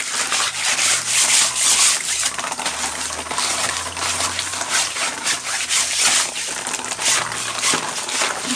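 Vigorous scrubbing: quick repeated rubbing strokes, scrubbing dirt off a canary cage dish or fitting.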